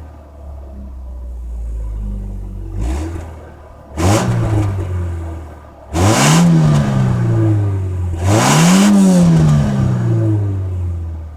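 Daewoo Lanos 1.5-litre four-cylinder petrol engine idling and being revved four times. The blips grow longer and higher, and each falls back to idle. This is a free-revving check for oil burning, which the owner puts down to stuck oil control rings.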